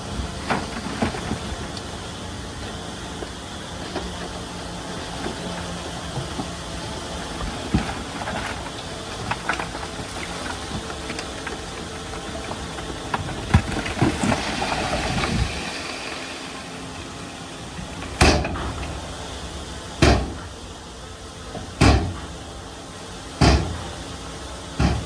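Shantui DH17C2 bulldozer working, its engine running steadily with scattered clanks. In the last third come four loud bangs about two seconds apart.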